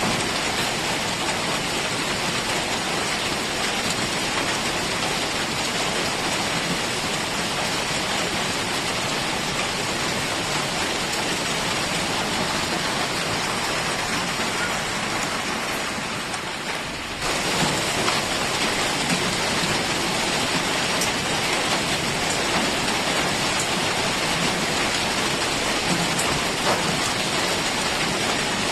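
Heavy rain falling steadily in a continuous, even hiss. About sixteen seconds in it dips slightly in level, then cuts back in abruptly a second later.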